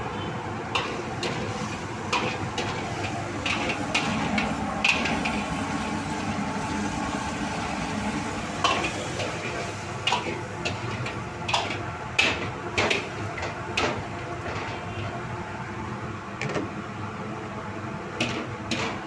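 Metal cooking utensils clinking and scraping against a pot: many scattered sharp clicks over a steady hiss.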